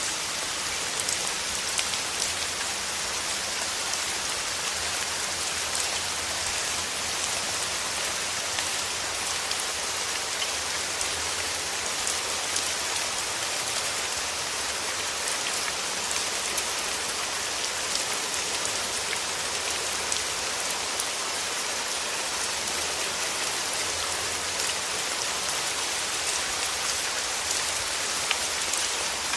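Steady rain: an even hiss of falling rain with many small, distinct drop taps scattered through it.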